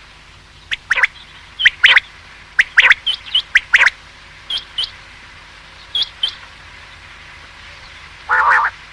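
Common quail calling: sharp, quick call notes in pairs and threes, then thinner, higher pairs, followed by a pause. A short harsh burst comes near the end.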